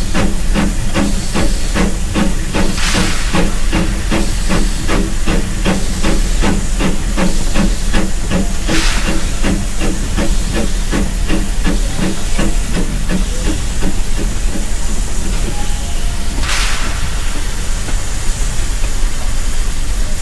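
Steam locomotive running, its exhaust chuffing in an even beat of about four a second that fades away in the second half. Three short bursts of hissing steam break in along the way.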